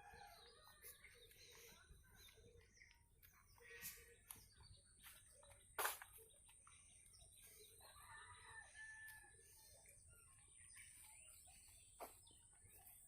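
Faint village morning ambience: chickens clucking and small birds chirping. A sharp click comes about six seconds in, and a smaller one near the end.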